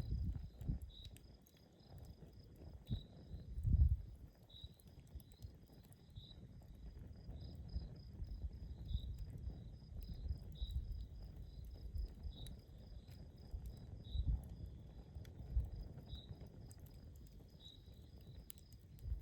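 Campfire burning outdoors: scattered small crackles and pops over a low rumble that swells a few times, loudest about four seconds in. Insects chirp throughout, a high chirp about once a second over a steady high trill.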